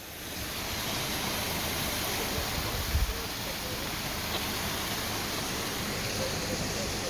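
Steady rushing noise that fades up at the start and holds evenly, with one low bump about three seconds in.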